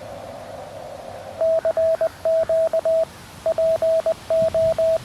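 Narrow-filtered receiver hiss from a QRP Labs QMX CW transceiver. About a second and a half in, the hiss gives way to a clean, steady Morse code tone keyed in dits and dahs. The hiss drops out whenever the tone plays, as the receiver mutes while the operator sends and hears his own sidetone.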